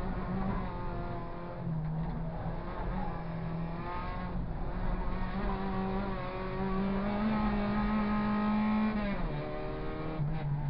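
Suzuki Swift race car's engine heard from inside the stripped cabin, running hard at high revs with brief dips in pitch as the driver changes gear. The pitch then climbs steadily for a couple of seconds and drops sharply near the end as the driver lifts off. Rough tyre and road noise runs underneath.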